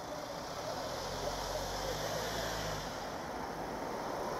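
A motor vehicle's engine humming low from about a second in until near three seconds, over steady outdoor noise.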